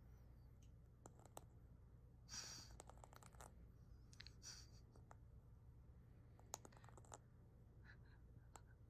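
Caique parrot smacking its beak and tongue after eating: faint, scattered little clicks with a couple of short soft rustles, over a low steady hum. Smacking after a full meal is said to mean the parrot feels ready to sleep.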